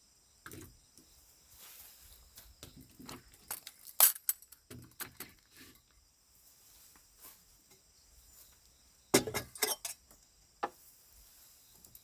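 Hard objects being handled: scattered light clinks and knocks, with one sharp clink about four seconds in and a quick cluster of knocks about nine seconds in.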